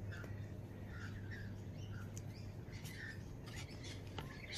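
Birds chirping in short calls over a steady low hum, with a few faint clicks.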